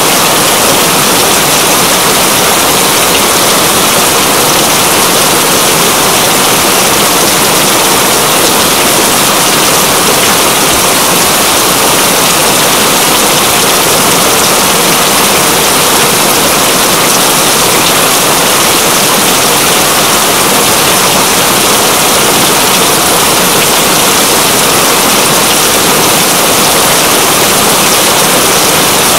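Heavy rain falling steadily: a loud, dense, even hiss with no letup.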